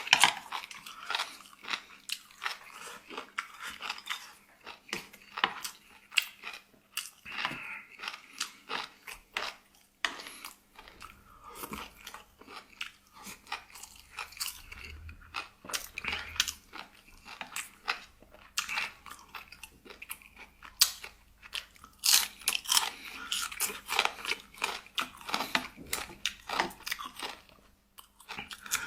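A person chewing and crunching food close to the microphone, with many short, crisp crunches and bites.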